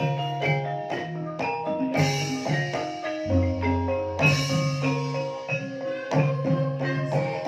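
Banyumasan gamelan playing an instrumental gending in the ebeg style: a steady, dense run of struck pitched keys. A deep low note sounds a little past three seconds in and rings for about a second.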